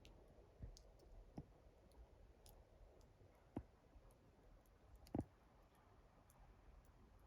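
Near silence with a few faint, scattered clicks, the loudest about five seconds in.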